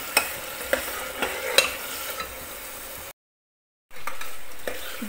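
Mutton and milk sizzling as they fry down in an aluminium pressure cooker, stirred with a steel ladle that clicks and scrapes against the pot a few times in the first two seconds. The sound cuts out completely for under a second a little after three seconds in, then the sizzling returns louder.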